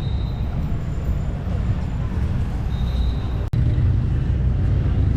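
Street traffic noise: a steady low rumble of passing vehicles. It breaks off sharply about three and a half seconds in and comes back a little louder.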